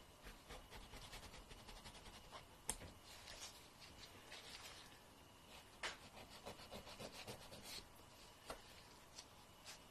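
Fingernails being filed: faint, quick scraping strokes in two runs, with a few sharper clicks and short pauses between.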